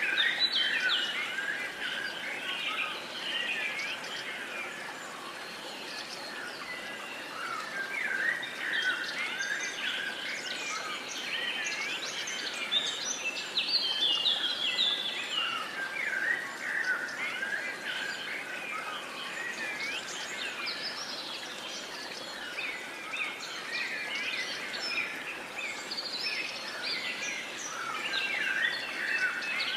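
Many songbirds chirping and trilling together over a soft background hiss, a continuous dawn-chorus-like mix of overlapping calls.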